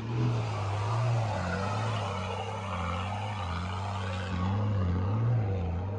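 Four-wheel-drive engine running at low revs, its pitch gently wavering up and down with the throttle.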